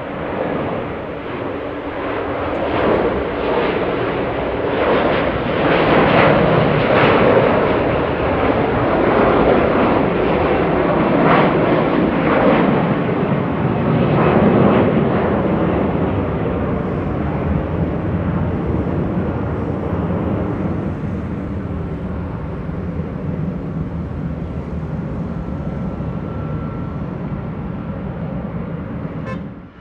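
Jet airliner's engines as it passes by, the rumble building to a peak through the first half and then easing off to a steady, lower roar.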